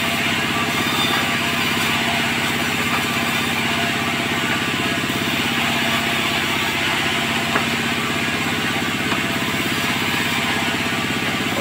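Sawmill machinery running steadily: an engine-like drone with a rapid low pulse under a hiss, with a faint knock about seven and a half seconds in.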